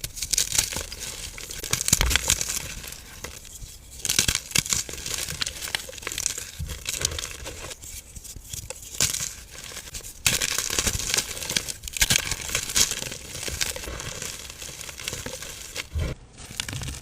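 Hands crushing and crumbling dry, powdery blocks, a dusty crunching crackle that comes in repeated bouts of a second or two.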